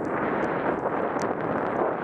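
Steady rushing noise of skiing downhill in deep powder snow, with skis hissing through the snow and wind buffeting the microphone. A few faint sharp clicks sound on top.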